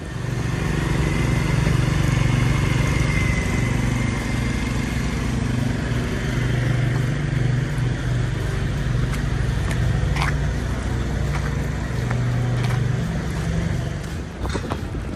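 A motor vehicle's engine running close by, a steady low hum that holds, then fades near the end. A sharp click comes about ten seconds in.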